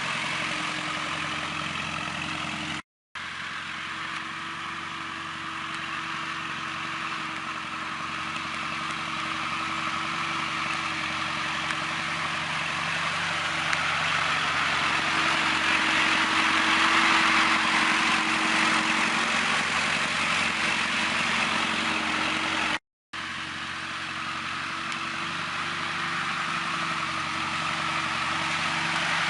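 Tractor engine running steadily at a constant speed, getting somewhat louder midway. The sound cuts to silence twice, briefly.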